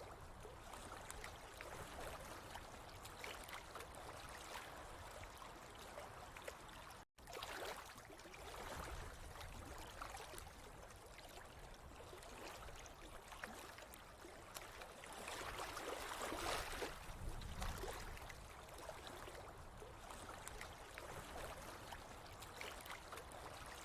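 Running water trickling and gurgling steadily, with a brief cut-out about seven seconds in and a fuller swell of flow a little past the middle.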